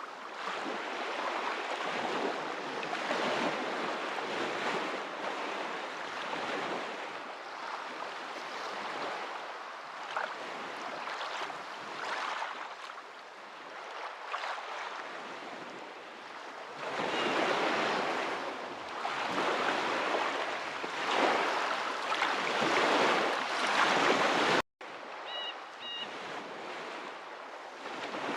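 Ocean waves washing in, the surf noise swelling and falling back every few seconds. The sound cuts out for an instant about three-quarters of the way through.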